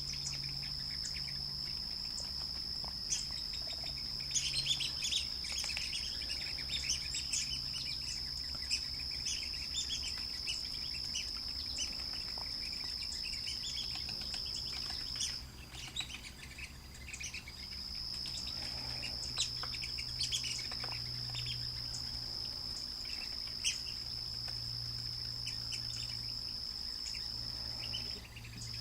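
Steady high-pitched insect drone, breaking off for a couple of seconds about halfway through and again near the end, with many short, sharp bird chirps and call notes over it.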